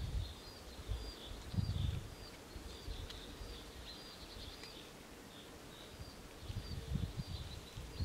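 Woodland birds chirping, short high notes repeated about twice a second, over a low rumble that swells about two seconds in and again near the end.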